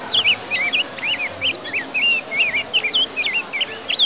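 Birds chirping busily, quick short chirps several a second, with a faint high tone slowly falling in pitch behind them.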